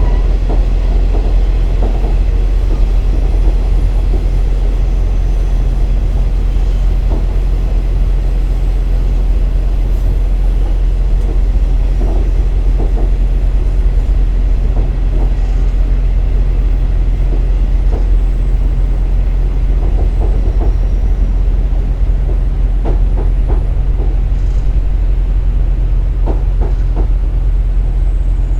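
KiHa 47 diesel railcar running along the line, heard from inside the car: a steady low diesel engine hum with wheel and rail rumble and scattered short clicks from the track.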